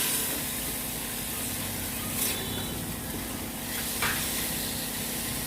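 Sweet corn, onions and mint paste sizzling steadily in ghee in a pressure-cooker pot while being stirred, with a couple of brief scrapes of the spoon.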